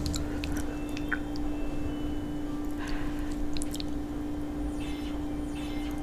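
Chewing and soft wet squishing of sauced fettuccine being eaten and twirled on a fork, with a few small clicks, over a steady low hum.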